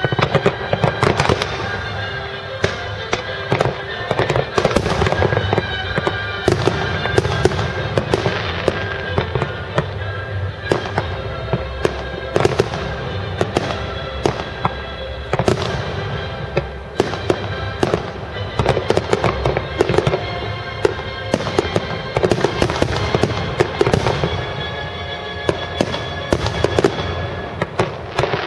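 Fireworks display: a dense, continuous barrage of shell bursts and crackling over music playing along with the show.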